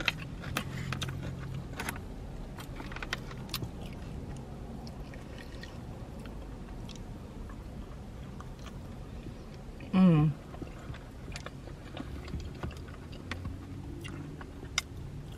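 Close-miked mouth sounds of someone chewing a soft chili cheese coney dog, with small wet clicks scattered throughout. About ten seconds in, a short hummed "mm" that falls in pitch.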